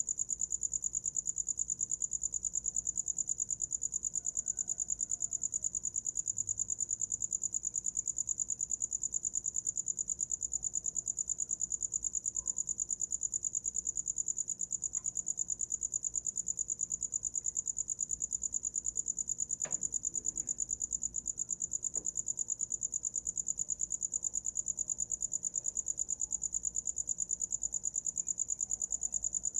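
A cricket chirping in a steady, rapid, high-pitched trill without a break, with a few faint clicks about two-thirds of the way through.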